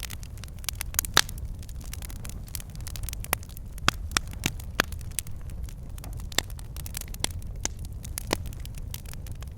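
Wood fire burning in a fireplace: a steady low rumble of flames with irregular crackles and a few sharper pops from the logs.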